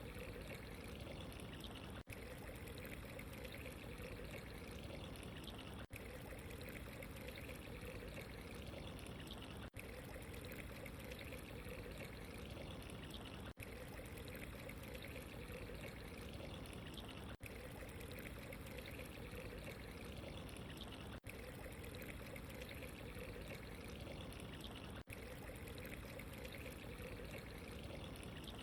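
Running water, a steady trickling, pouring flow. It is broken by a very brief dropout about every four seconds.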